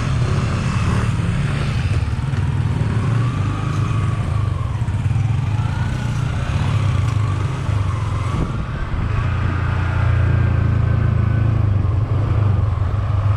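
Motorcycle engine running steadily while riding, with a higher whine that rises and falls as the speed changes.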